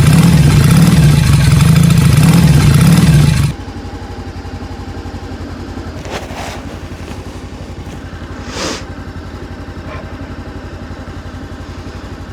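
Voge DS525X parallel-twin motorcycle engine, very loud under throttle for the first three and a half seconds, then cutting abruptly to a much quieter steady idle. Two brief hissy noises sound over the idle.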